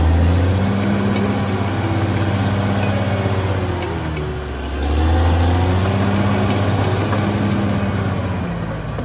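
Heavy dump truck's diesel engine running, rising and easing in strength about every four to five seconds, with music over it.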